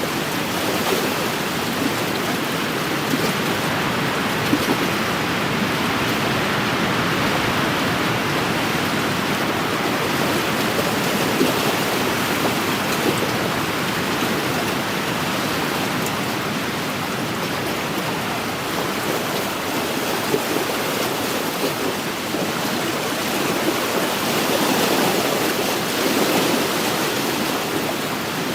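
Small wind-driven lake waves lapping and splashing along the shore: a steady wash of water noise with occasional sharper splashes.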